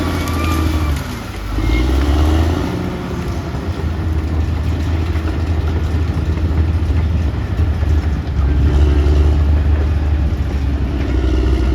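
Caterpillar D6R XL bulldozer's diesel engine running steadily under load. It dips briefly about a second in, then picks up again.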